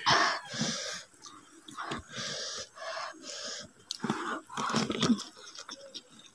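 Close-mic eating sounds: a mouthful of rice, sambal and vegetables chewed noisily with wet, open-mouth smacking, in irregular bursts.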